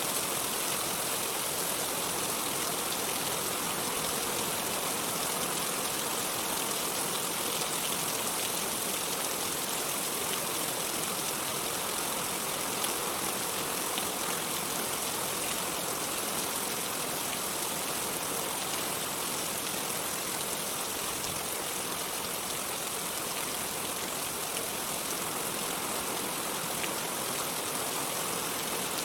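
Steady heavy rain falling, a dense, even hiss that holds level throughout.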